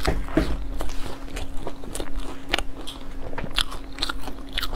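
A person biting into and chewing a cream puff, giving irregular crisp clicks of the pastry crust breaking in the mouth.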